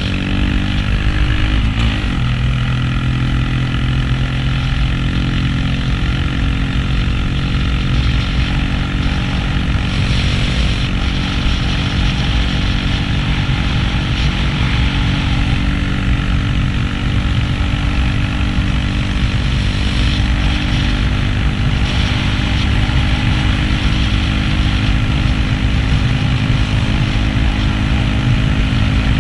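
Honda Grom's 125 cc single-cylinder engine running while riding at a steady speed, with wind rumble on the microphone. The engine note shifts about one to two seconds in, then holds steady.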